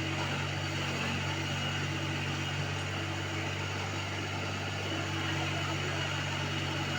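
Tractor engine of a tractor-fitted backhoe loader running steadily at an even speed, a constant low hum with no changes in pitch.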